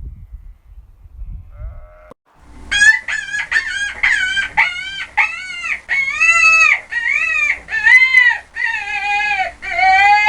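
A farm animal calling: a rapid series of short, high, arched calls, about three or four a second at first and slowing to about two a second, starting about two seconds in.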